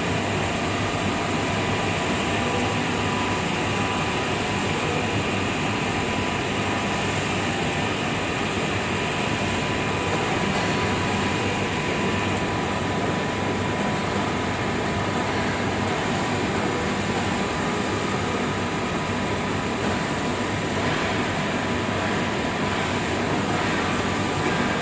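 CNC glass working center running steadily: an even machine noise with a faint constant whine.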